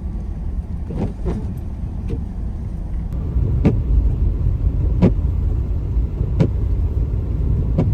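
Car on the move, heard from inside the cabin: a steady low road and engine rumble, with a sharp tick about every second and a half.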